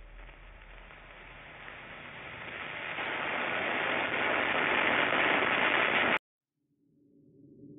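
A rushing noise effect that swells steadily louder for about six seconds, then cuts off abruptly. After a moment of silence, a low humming drone fades in near the end.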